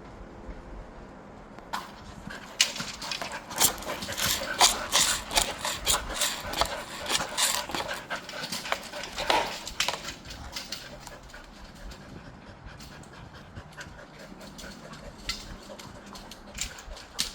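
Dogs panting and moving about, with a dense flurry of sharp clicks and knocks from about two to ten seconds in, then quieter.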